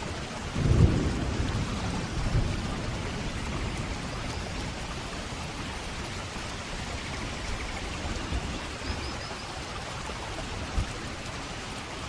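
Steady rain falling, with a low rumble of thunder about a second in and a smaller one shortly after.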